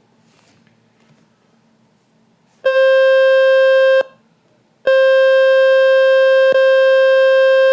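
Loud, steady buzzing test tone from the Fix My Speaker website's speaker-cleaning button, meant to shake water and dust out of a phone speaker. It starts almost three seconds in, breaks off for about a second, then comes back.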